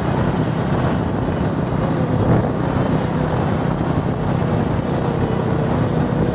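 Motorcycle running steadily along a road, engine drone mixed with wind noise on the microphone.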